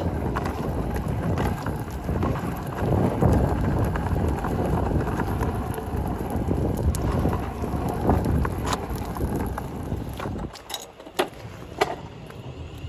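Class 350 electric train running into the platform, a steady low rumble with wind buffeting the microphone. The rumble dies away about ten and a half seconds in, leaving a few sharp clicks.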